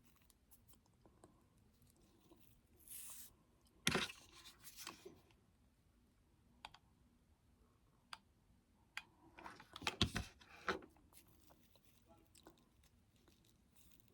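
Scattered clicks, taps and rustling from small craft pieces being handled and set down on a work surface during gluing, with a brief hiss about three seconds in and two louder flurries of handling about four and ten seconds in.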